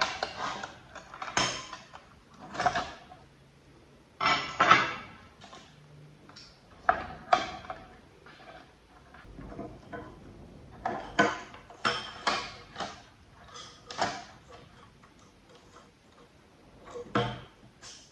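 Desk lamp parts and hand tools being handled: irregular clicks, clinks and short scrapes of small metal and plastic pieces, with a louder flurry of knocks about four seconds in and another run of them after about eleven seconds.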